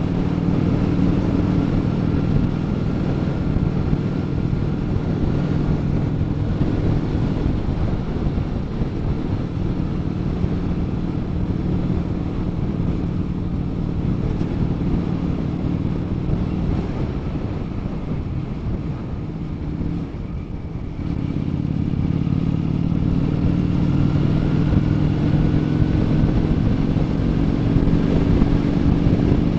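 Honda Shadow 400 V-twin motorcycle engine running through a Kentec aftermarket muffler, holding a steady note. About 20 s in the sound drops back briefly, then the engine climbs steadily in pitch and loudness.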